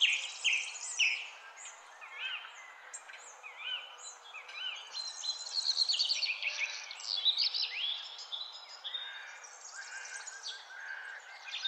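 Several small birds chirping and twittering, with many short calls overlapping throughout.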